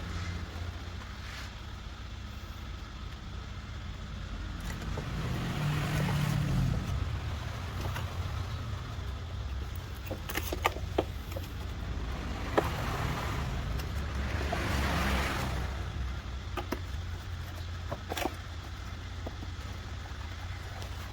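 Steady low rumble of a motor vehicle, swelling louder twice, with a few sharp clicks.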